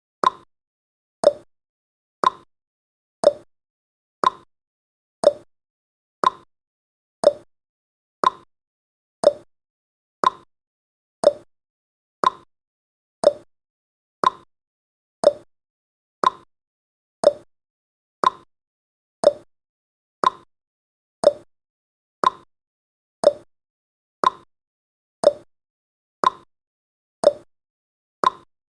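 Countdown timer's ticking sound effect: a short click once a second, alternating between a higher and a lower pitch like a clock's tick-tock.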